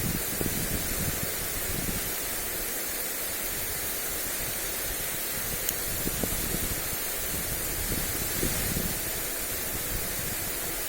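Lawn sprinkler spray hissing steadily onto grass. Gusts of wind buffet the microphone now and then as low rumbles.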